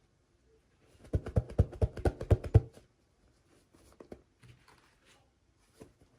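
Hands handling a toy during unboxing: a quick run of about a dozen sharp clicks starting about a second in, then faint light handling noises.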